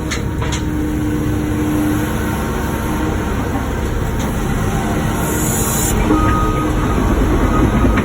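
Wacker Neuson ET145 excavator's diesel engine and hydraulics running steadily under load while working pavement, with a faint steady whine over the rumble. A brief hiss comes about five seconds in.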